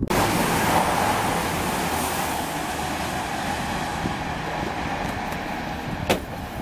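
Railway train running past on the main line: a steady rushing rumble with a faint low hum that slowly fades as it draws away. One sharp knock about six seconds in.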